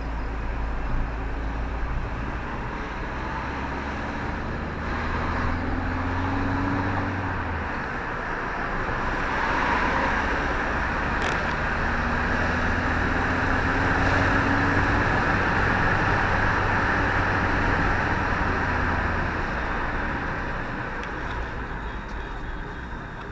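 Motor vehicle driving with steady road noise, its engine note rising slowly twice as it accelerates.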